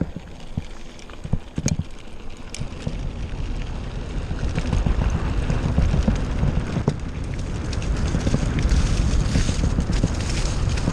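Mountain bike setting off over rough ground: a few sharp clicks and knocks at first, then a growing rattle and rumble of tyres and frame with wind on the microphone, getting louder from about four seconds in as it picks up speed.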